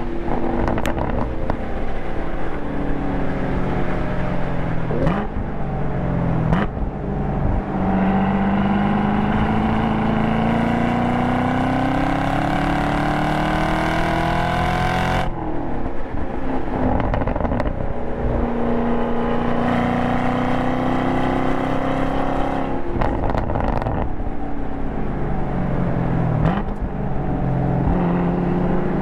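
The Chevrolet Camaro SS 1LE's 6.2-litre LT1 V8, heard from inside the cabin while driven hard on a race track. The engine note falls under braking with sharp throttle blips on downshifts of the manual gearbox, twice. In between, it climbs in one long pull under full acceleration that cuts off abruptly about halfway through.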